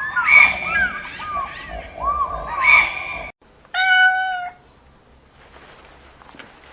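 A chorus of overlapping short, high calls from several small animals that cuts off abruptly about three seconds in, followed by a single clear cat meow lasting under a second.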